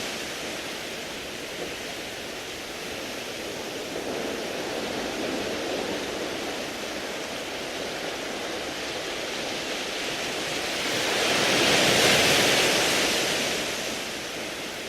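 Sea waves washing over a beach of smooth, rounded pebbles: a steady rushing hiss, with one wave surging up about three quarters of the way through and then easing off.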